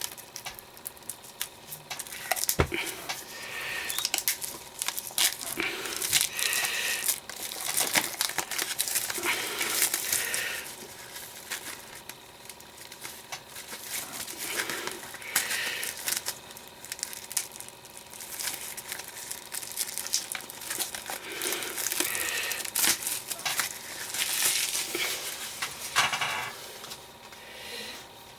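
Plastic wrapping being torn and crumpled off a CD: a long, irregular run of crinkling and crackling with small clicks of the hard case being handled.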